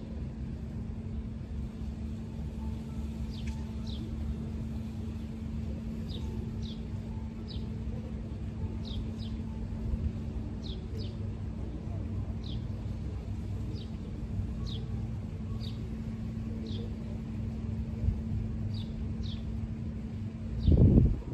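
Outdoor ambience: a steady low rumble with a constant hum under it, and a small bird chirping short high chirps about once a second, often in pairs. A loud low thump comes near the end.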